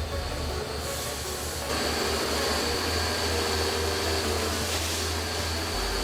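Heavy forestry machinery running steadily with a low hum. It gets louder about two seconds in, where a high steady whine joins.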